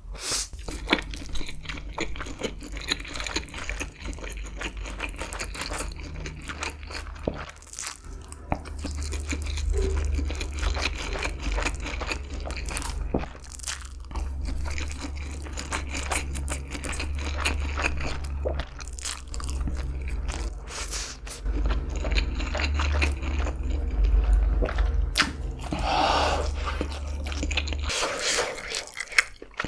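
Close-up biting, crunching and chewing of food, many crisp crackles in a row, over a steady low hum that stops near the end.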